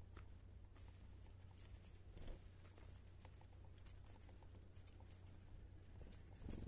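Near silence: a steady low hum with faint, scattered ticks and a soft bump about two seconds in and another near the end.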